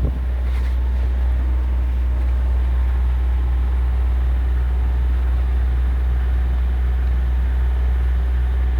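Sailboat's auxiliary engine running steadily as the boat motors in under power with the sails down, a low, even drone.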